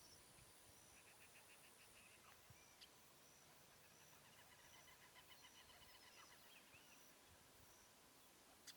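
Faint outdoor birdsong: a short rapid trill about a second in and a longer trill in the middle, over a high chirp that repeats about twice a second. Two sharp clicks, one near the middle and one at the very end.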